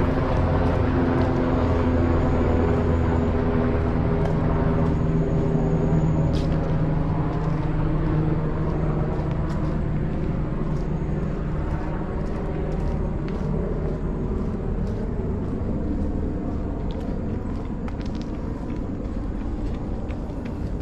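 A motor vehicle's engine running nearby, a low steady drone that slowly fades.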